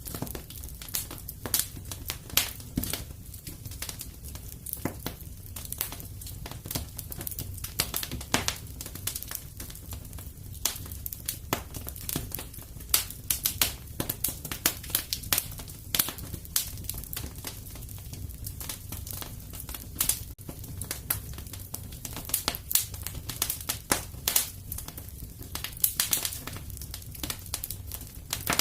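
Wood fire crackling and popping in a fireplace: irregular sharp snaps, several a second, over a low steady rumble of flames.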